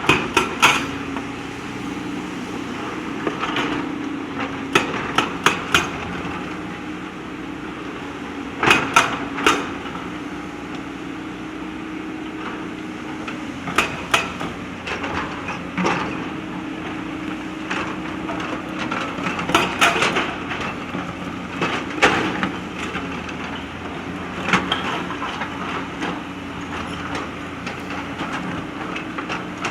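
JCB backhoe loader's diesel engine running steadily, its pitch rising and falling a little with the hydraulics' load, while the steel bucket clanks and scrapes against river stones in clusters of sharp knocks every few seconds.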